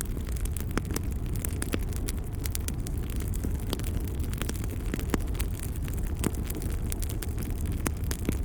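Fireplace fire burning with a steady low rumble and frequent sharp crackles and pops scattered throughout.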